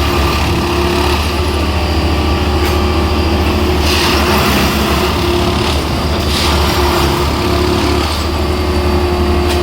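Plasser & Theurer rail lifting track machine's engine running steadily with a low hum, and a louder rushing noise that comes and goes every few seconds.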